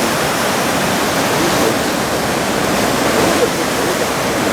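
Steady roar of heavy ocean surf, large typhoon swell breaking along the shore.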